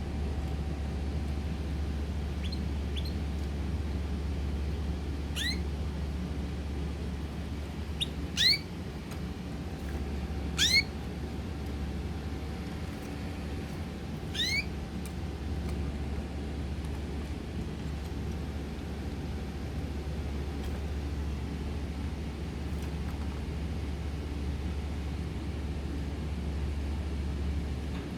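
Pet bird giving four short, upward-sweeping chirps spread over the stretch, the second and third loudest, over a steady low hum.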